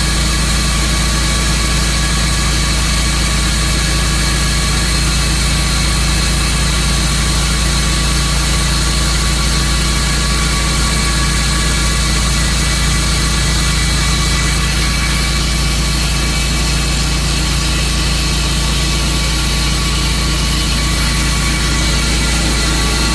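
Sawmill's engine running steadily at constant speed, a loud even drone with no changes in pitch.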